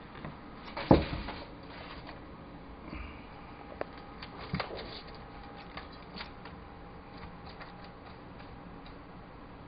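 Mangrove monitor feeding on sliced mice: a sharp knock about a second in, then scattered clicks and small knocks from the lizard biting and handling the food.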